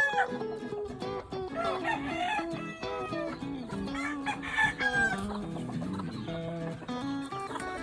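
Gamefowl roosters crowing, with clucking, over background music. Crows come about a second and a half in and again around the middle.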